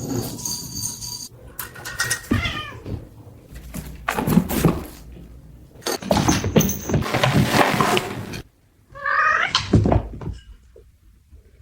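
Cats meowing in a run of short clips, with bumps and clatter between the calls; one long, clear meow comes about nine seconds in.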